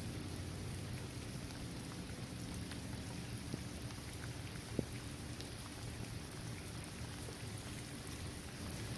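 Steady rain falling on a hard court, trees and grass, with scattered individual drop ticks and one sharper drip about five seconds in.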